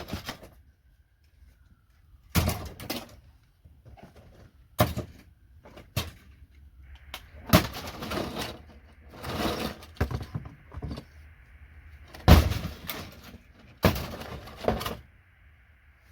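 Plastic connectors being twisted and snapped off a circuit board by hand, a series of sharp cracks and clatters about every one to two seconds, loudest about twelve seconds in.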